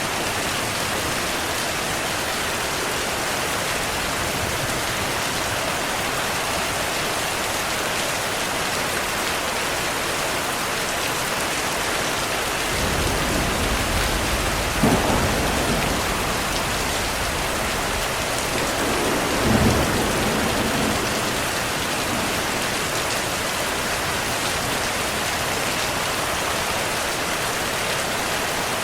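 Heavy rain falling steadily. A low rumble of thunder builds a little under halfway through, peaks in two louder claps a few seconds apart, and dies away.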